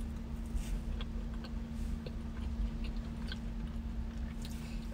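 Close-up chewing of a bite of soft frosted vanilla cupcake: small, irregular mouth clicks and smacks over a steady low hum.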